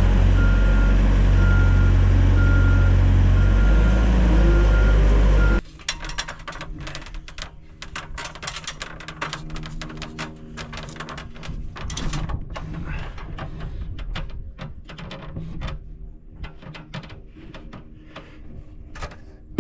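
A heavy machine's engine running loudly with a reversing alarm beeping at a steady repeat, cut off suddenly about five and a half seconds in. After that come quieter scattered knocks and clicks of work on the timber.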